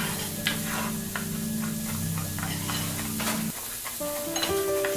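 Diced onion and mushroom sizzling in oil in a frying pan, with a spatula scraping and stirring against the pan in short strokes. Background music with held chords plays over it, changing chord about three and a half seconds in.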